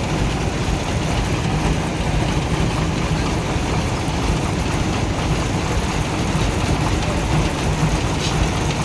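A heavy vehicle engine running steadily at a low, even idle.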